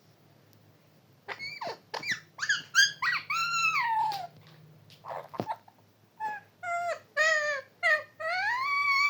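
Pet parrot calling: a run of short squeaky notes, then longer calls that rise and fall in pitch, with the longest arching call near the end.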